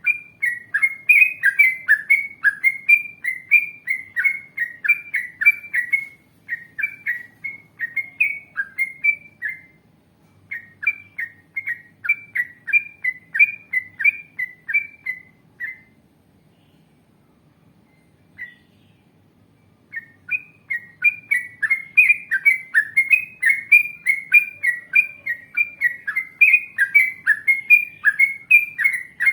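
Yellow-vented bulbul (trucukan) singing long runs of quick, repeated chirping notes, about two a second. The song pauses for about four seconds past the middle, with one lone note, then picks up again.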